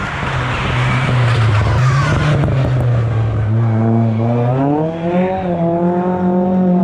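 Race car engine running hard and accelerating, its pitch climbing in steps from about halfway through. The sound cuts off abruptly at the end.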